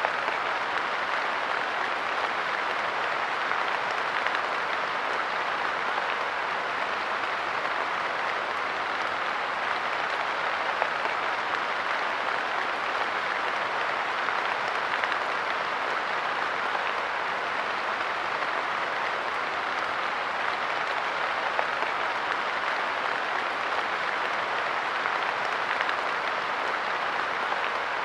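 Steady light rain pattering, an even hiss of many small drops with no change in strength.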